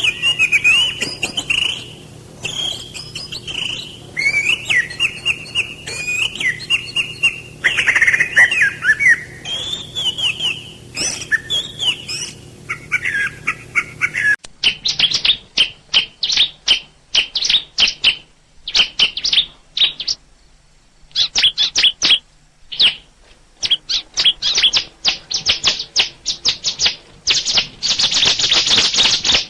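Songbirds singing: a varied, warbling song over a faint steady low hum, then, after an abrupt cut about halfway through, rapid sharp chirps repeated in quick series.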